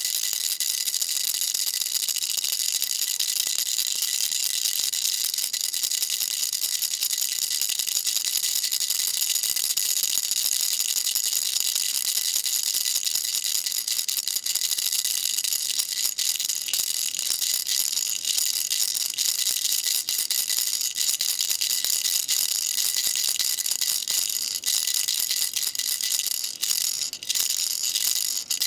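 Baby rattle shaken continuously: a dense, steady, high-pitched rattle of small beads, with a few brief breaks near the end.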